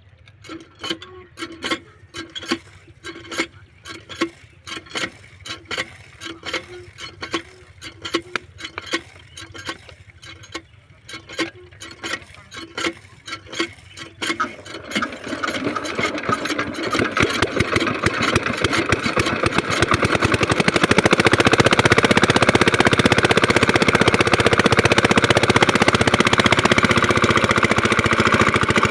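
Small 5 hp diesel water-pump engine being cranked to start: a rhythmic clacking about twice a second, then about halfway through it catches and builds up to a steady run.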